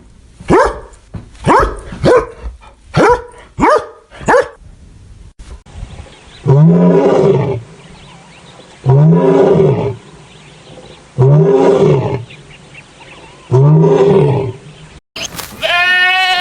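A string of animal calls: about seven short, sharp calls falling in pitch, then four long calls that rise and fall in pitch, evenly spaced. A quavering goat bleat starts near the end.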